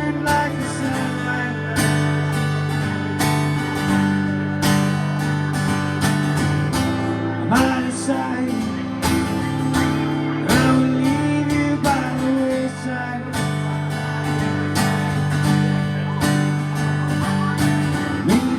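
Acoustic blues guitar music: an instrumental passage of plucked and strummed chords with no singing.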